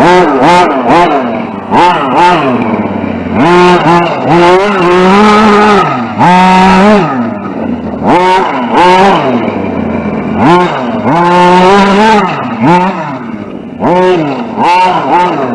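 Electric radio-controlled short course truck's motor and drivetrain whining as it is throttled on and off over and over, the pitch rising and falling with each burst. There are longer held full-throttle runs about four seconds in and again around eleven seconds in, with dirt and tyre noise under them.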